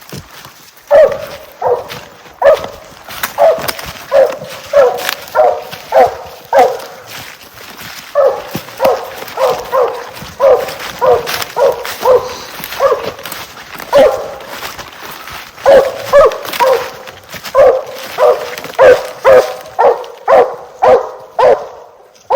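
Treeing Walker coonhound barking at the tree: a steady run of loud, evenly pitched barks, one or two a second with a couple of short pauses, the sign of a treed raccoon.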